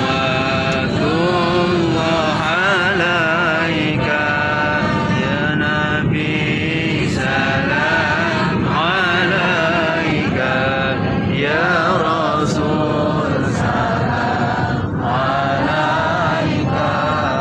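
A group of voices chanting sholawat together in unison, a continuous wavering melodic chant, with the aircraft cabin's steady hum underneath.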